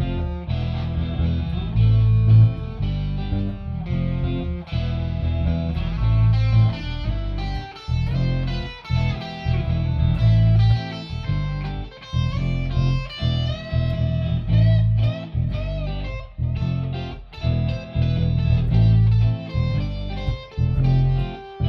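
Electric guitar playing a shuffle, with a steady pulsing low-note rhythm and bent notes that glide in pitch.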